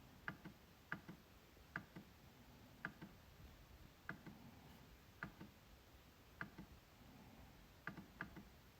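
MacBook trackpad being clicked: about nine short, sharp clicks at uneven intervals, several coming as a quick double click, over faint room tone.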